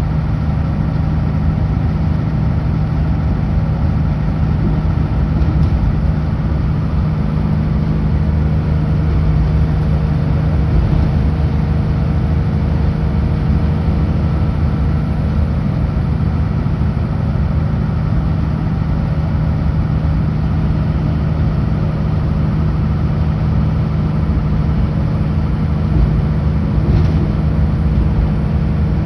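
Kenworth W900L semi truck's diesel engine running at a steady pitch while cruising on the highway, with steady road and tyre noise.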